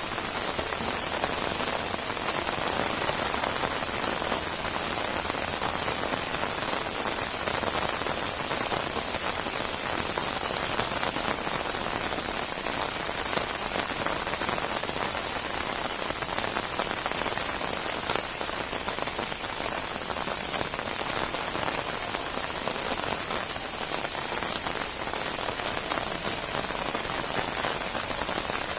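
Steady heavy rain falling on a surface, a dense even hiss of many drops.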